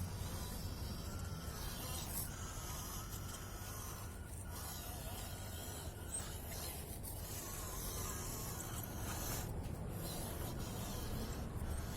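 Small electric 1/16-scale RC truck driving through sand: a faint motor whine wavers in pitch over a steady hiss of the tyres scraping and churning the sand, with a constant low rumble underneath.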